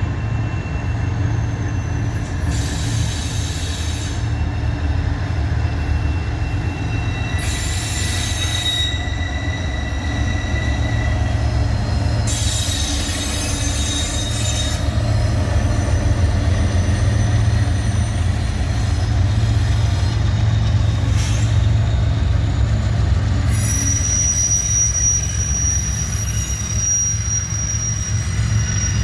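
Live-steam miniature ride-on train running on its track: a steady rumble of wheels on rail, with high-pitched wheel squeal that comes and goes several times and holds steady near the end.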